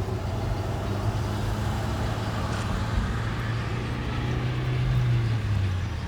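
Car engine humming steadily under road and wind noise, heard from inside the moving car; the engine's note drops a little about five seconds in.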